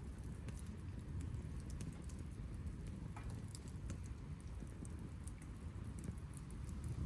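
Wood campfire crackling: scattered sharp pops and ticks over a steady low rumble.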